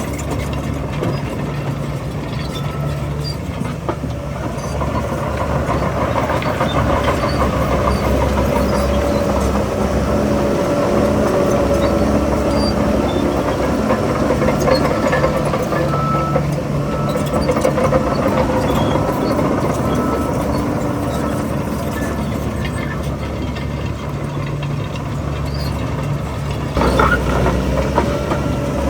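Heavy diesel engine of earthmoving machinery running under shifting load, the engine note rising and falling. It turns suddenly louder and fuller near the end.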